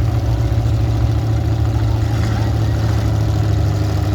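Demolition derby cars' engines idling together, a loud, steady low rumble.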